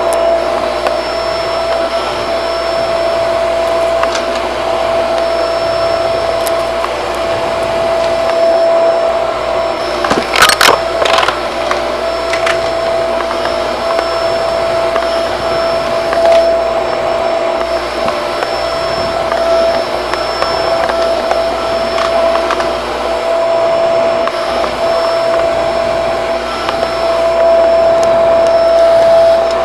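Shark vacuum cleaner running with a steady motor whine, with a short rattle of sharp clicks about ten seconds in.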